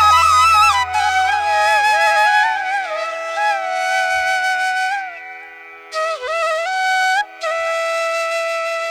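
Flute music: a slow melody of held notes that bend and slide between pitches, over a steady drone. The melody pauses briefly twice.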